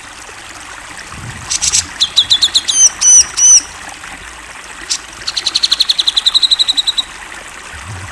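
Cucak jenggot (grey-cheeked bulbul) singing. About a second and a half in comes a harsh burst, then a fast chattering series and several looping whistled notes. From about five to seven seconds a long, rapid trill of even notes follows.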